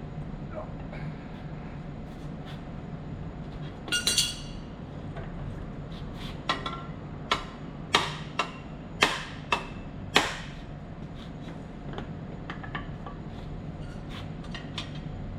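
Hammer striking metal: about seven sharp, ringing knocks spread over six seconds in the middle, over a steady low machinery hum.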